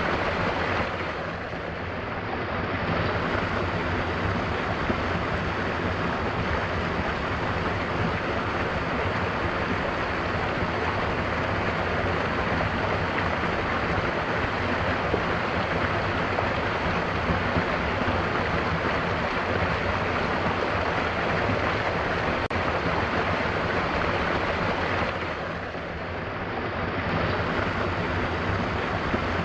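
Mountain waterfall: a steady rush of falling water. It briefly softens twice, about a second in and again near the end.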